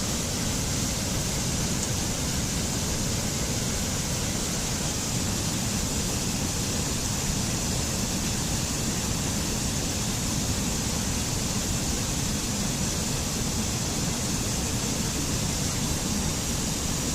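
Steady rushing noise, even and unchanging, that starts and stops abruptly.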